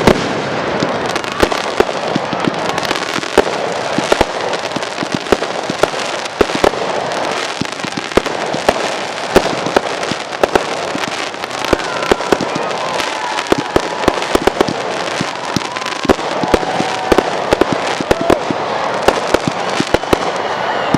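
Aerial fireworks display: a dense, continuous barrage of sharp bangs and crackling bursts, many reports a second.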